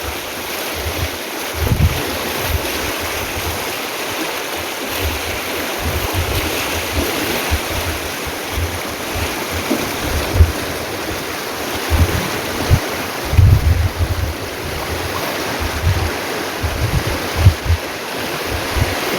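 A steady rush of flowing water, with wind buffeting the microphone in repeated low gusts.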